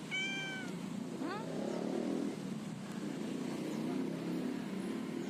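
Young stray cat meowing for food: one drawn-out meow right at the start, then a short rising meow about a second in, over steady roadside traffic noise.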